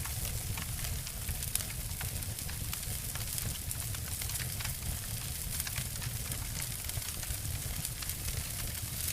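Two wood fires crackling and snapping together: frequent short sharp pops over a steady low rumble and hiss.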